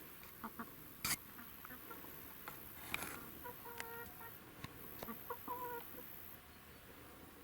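A few short clucking calls from a bird, with scattered soft knocks and one sharp click about a second in.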